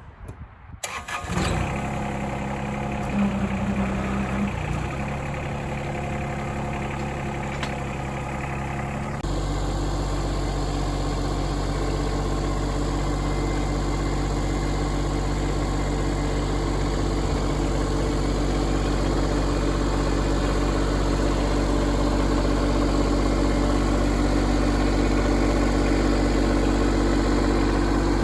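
A John Deere 2210 compact tractor's three-cylinder diesel engine starts about a second in and runs steadily. About nine seconds in it steps up to a louder, fuller steady run.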